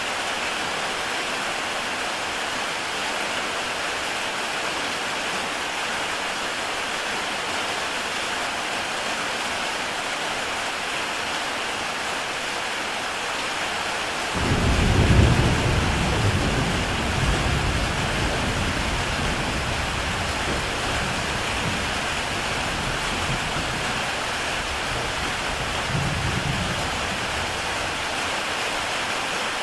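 Heavy rain falling steadily on a tile roof. About halfway through, a deep rumble of thunder starts suddenly and fades over several seconds, with a smaller rumble near the end.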